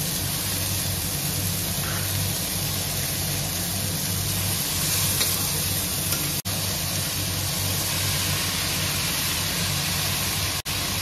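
Tomatoes and fiddlehead ferns frying in oil in a kadai: a steady sizzle. It cuts out briefly twice, about six and ten seconds in.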